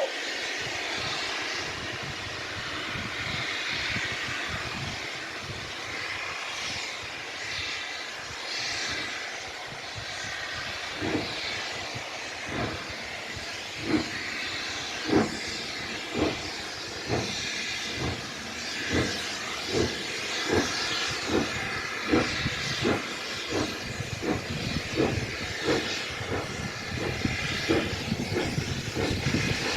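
Black 5 steam locomotive pulling away: a steady hiss of steam, then from about ten seconds in the exhaust beats start, slow at first and gradually quickening as the engine gathers speed.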